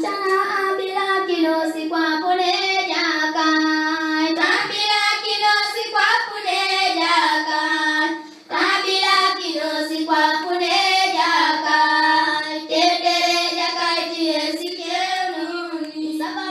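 Children singing a song together, held notes in phrases with short breaks between them.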